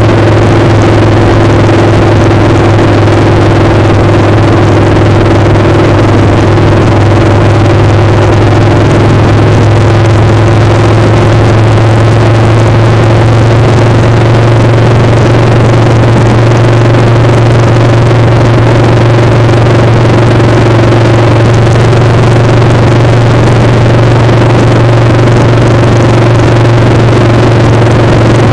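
Motorcycle engine running steadily and very loud, its pitch edging up slightly about halfway through, over a constant rush of wind noise.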